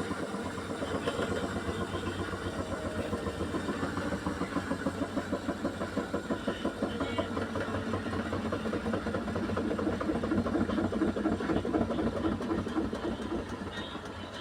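Beko washing machine drum spinning at 800 rpm, with a fast rhythmic beat the uploader likens to a helicopter. It grows louder until about two-thirds of the way in, then fades near the end as the spin starts to slow.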